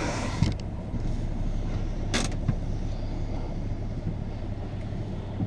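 Volvo S60 2.0T's five-cylinder petrol engine idling, a steady low rumble heard from inside the cabin. A click about half a second in, after which the outside noise drops away, and a short sharp burst about two seconds in.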